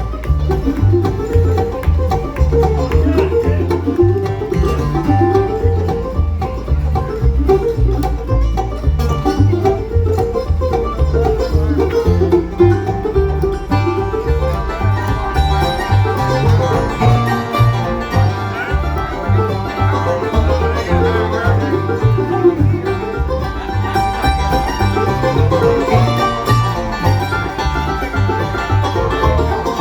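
Bluegrass band playing an instrumental, led by rapid five-string banjo rolls over a steady pulsing bass line, with more sustained melody notes joining about halfway through.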